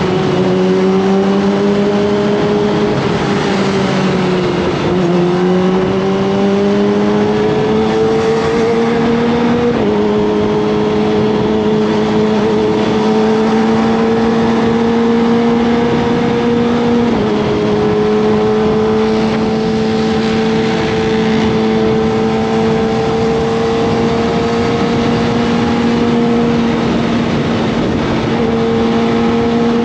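Kawasaki ZX-25R's 249 cc inline-four engine running under way. The engine note eases off and picks up again early on, then climbs gradually with sudden drops in pitch about ten and seventeen seconds in, as the rider shifts up through the gears.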